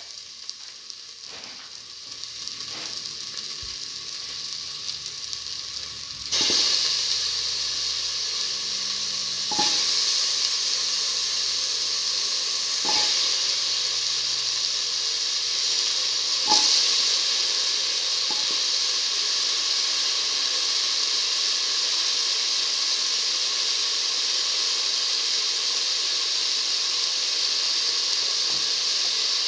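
Shallots, garlic and tomato sizzling in hot oil in a metal pan as chunks of raw potato are added. The sizzle jumps louder about six seconds in, with a few knocks as pieces land over the next ten seconds, and then stays at a steady loud sizzle.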